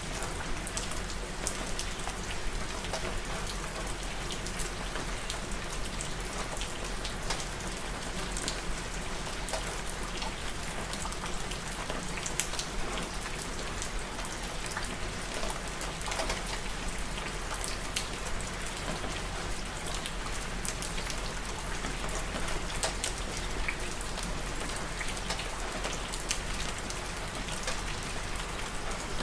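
Steady rain falling on a surface, an even hiss of rainfall with many close individual drop patters.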